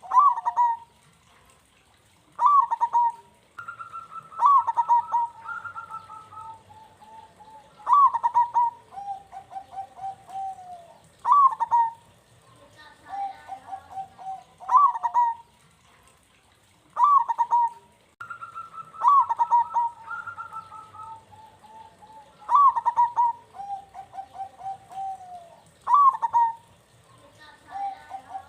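Zebra doves (perkutut) cooing: repeated phrases of rapid trilled notes and sharp, bright 'kung' notes, every two to three seconds, with phrases sometimes overlapping.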